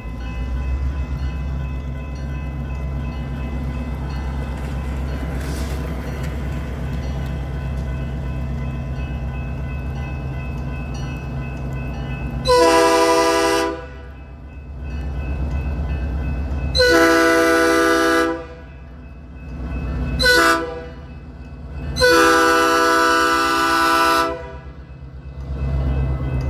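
Locomotive running with a steady low engine rumble. From about halfway its multi-tone horn sounds long, long, short, long, the standard grade-crossing signal.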